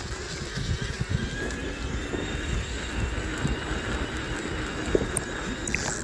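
Electric mountain bike rolling downhill over a rough, muddy track: a steady rumble of tyres and rattling frame, with irregular low thumps from the bumps.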